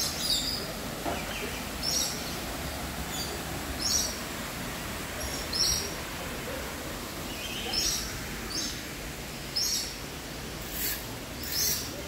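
A bird repeatedly giving short, high chirping calls about every one to two seconds, louder and closer together near the end, over a steady rush of running water from a small waterfall.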